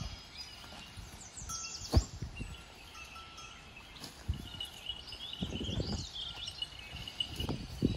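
Small birds chirping and trilling in an outdoor rural ambience, with scattered knocks and thumps. The loudest is a sharp knock about two seconds in.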